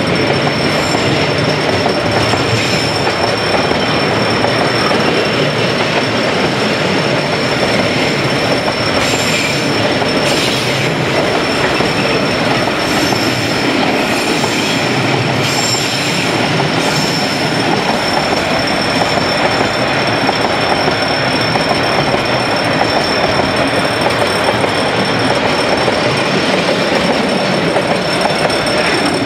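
Container freight wagons rolling past at speed: a steady loud rumble and clatter of steel wheels on rail, with brief high wheel squeals several times around the middle.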